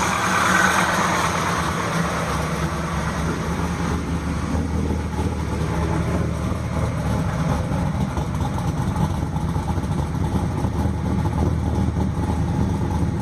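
E85-fuelled LT4 V8 engine idling steadily.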